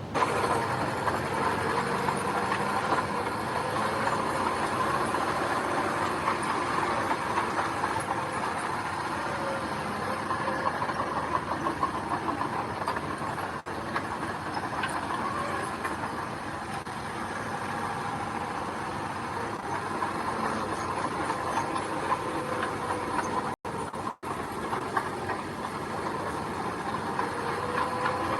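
Diesel engine of road-work machinery running steadily, with a metallic clatter over it; the sound cuts out for an instant a few times.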